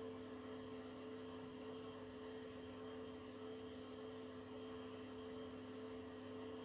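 Beko WTK104121W washing machine spinning, a steady motor whine held at two even pitches over a low hum.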